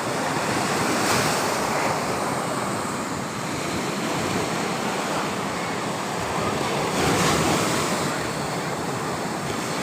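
Sea waves breaking on a beach, a steady rush of surf that swells about a second in and again around seven seconds in.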